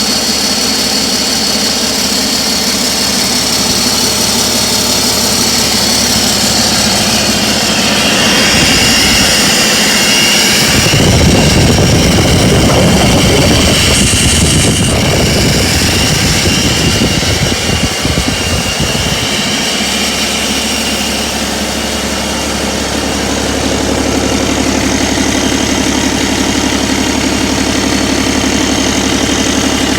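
2019 Cummins X15 15-litre inline-six diesel engine running at a steady idle, revved up for about ten seconds from roughly a third of the way in, then settling back to idle.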